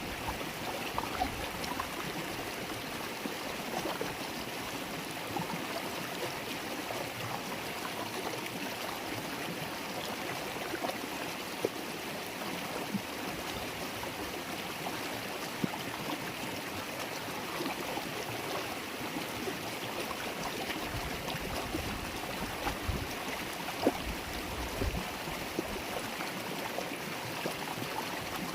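River water flowing and babbling over stones, a steady rushing wash with small bubbling splashes throughout.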